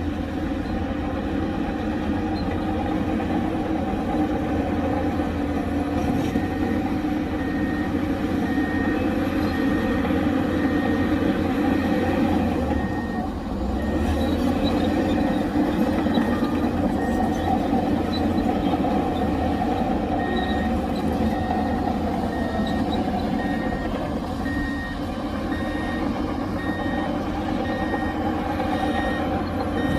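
Heavy diesel earthmoving machinery running steadily under a reversing back-up alarm, beeping at about one and a half beeps a second. The alarm stops for several seconds near the middle and then starts again.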